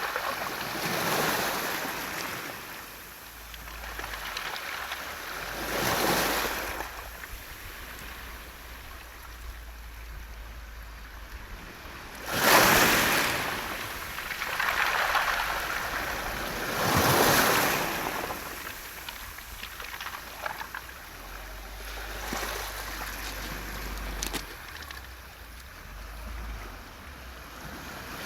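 Sea waves washing in and out over a beach of smooth round mongdol pebbles. The rushing hiss surges in every few seconds and fades between, with the loudest wave about twelve seconds in.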